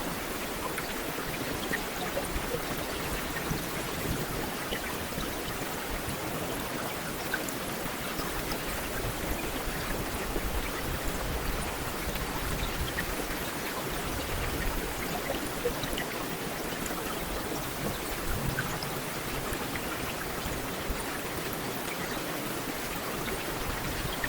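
Heavy rain falling steadily, an even hiss dotted with many small drop ticks.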